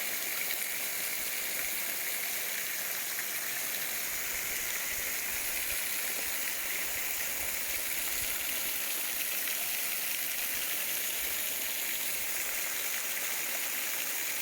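Steady rushing of falling water, an even hiss that is strongest in the high range, with no change throughout.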